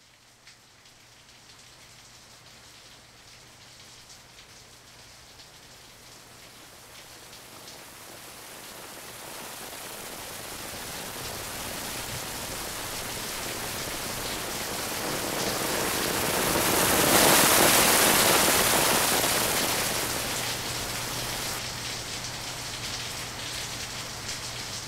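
Rain building steadily from light rain to a heavy downpour that peaks about two-thirds of the way through, then eases somewhat near the end: the short, intense cloudburst of a 'rain bomb'.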